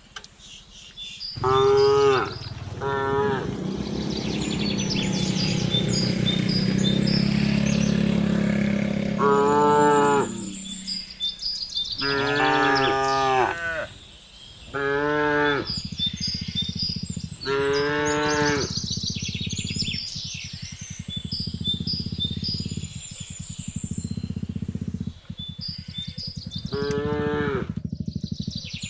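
Cattle mooing again and again: a string of short, higher-pitched calls and one long low moo in the first third. Faint bird chirps sound above them.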